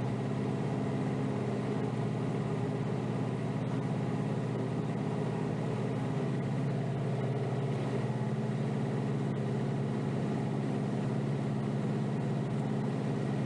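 Kioti DK5320SE tractor's diesel engine running steadily, heard from inside the cab.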